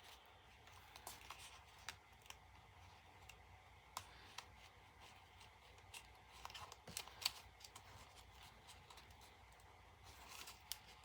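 Faint paper handling: scattered light ticks, taps and soft rustles as journal pages, cards and tags are moved, with a small flurry of them around the middle.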